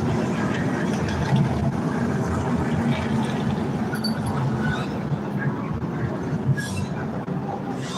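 NASCAR Craftsman Truck Series race trucks' V8 engines running steadily around the track under caution, at reduced pace.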